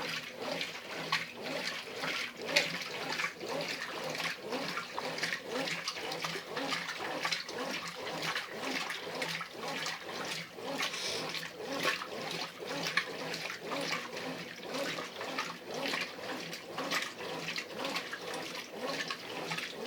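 Brastemp Ative BWP11 top-loading washing machine agitating a load in the first wash agitation of its heavy cycle: water and clothes sloshing and churning continuously, with irregular surges.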